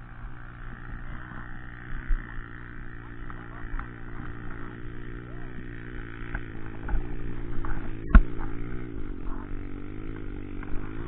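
Dirt-bike engine running at low revs, its pitch wavering a little, with a sharp knock about eight seconds in.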